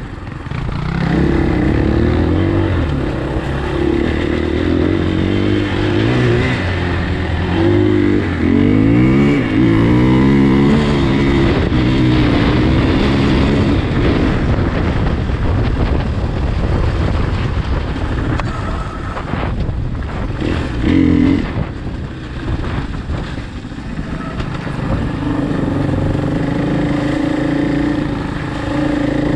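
Off-road motorcycle engine running on the move, revving up and down repeatedly as the rider works the throttle and gears. There is a short sharp rev about two-thirds of the way in and a steadier note near the end.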